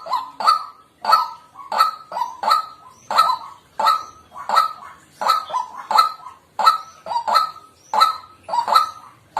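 White-breasted waterhen calling: a steady run of short, harsh notes, about two to three a second.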